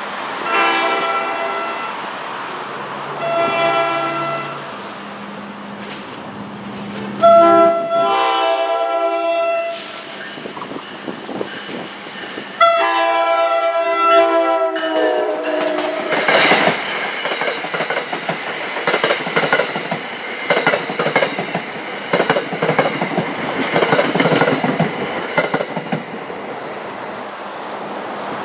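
NJ Transit ALP-45DP locomotive's horn sounding four blasts as it approaches, the first two short and the last two longer, with the pitch sliding on the last two. It then passes close by with its single Comet V car, with rapid clickety-clack of wheels over the rail joints and a brief high whine. On this line the locomotive runs on its diesel engines.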